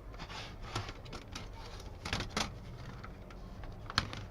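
Thin sheet-metal plates of a folding gas-burner windscreen clicking and rattling lightly as they are handled, with a sharper click about four seconds in.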